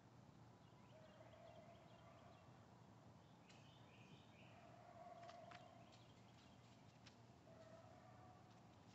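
Near silence: faint outdoor ambience with distant birds calling every few seconds, and a few faint ticks.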